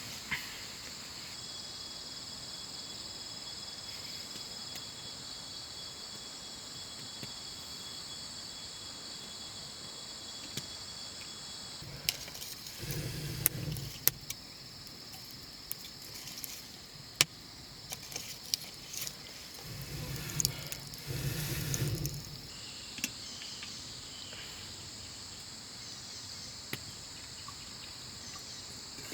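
Steady high-pitched insect chorus, with a thinner high tone that drops out about a third of the way in. Through the middle stretch come scattered sharp clicks and two short, dull rumbling bursts of handling or rustling noise.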